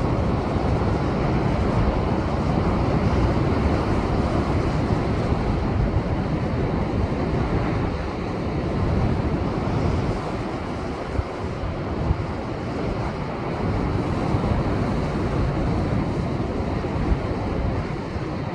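Rough post-typhoon surf breaking against a rocky shore: a continuous, dense rush of waves with heavy low rumble and no single crash standing out, and wind buffeting the microphone.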